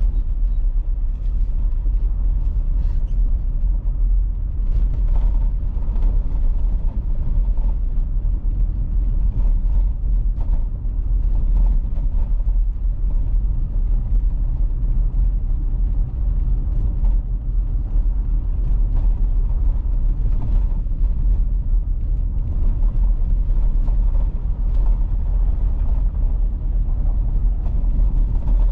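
A car being driven, heard as a steady low road and engine rumble with faint scattered ticks.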